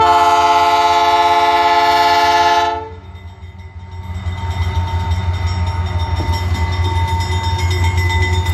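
Diesel freight locomotive's air horn sounding one long blast of several notes together, about three seconds, that cuts off sharply. Under it and after it runs the low rumble of the locomotives, which grows louder from about four seconds in as the train comes on.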